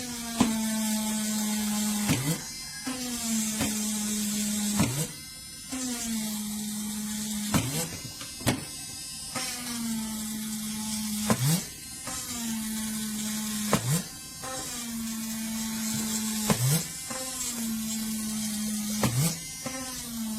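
Keelat cordless mini rotary tool's small electric motor, switched on over and over. Each time it spins up with a quick rising whine, then runs at a steady pitch for about two seconds before the next start, roughly every two to two and a half seconds.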